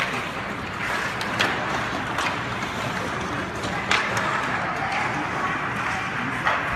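Skates scraping over a rink and sharp clacks of sticks, four or five of them, over steady background rink noise.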